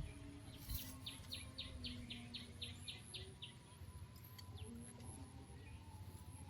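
A bird calling outdoors: a quick run of about ten short, high chirps lasting a couple of seconds, faint over a low background hush.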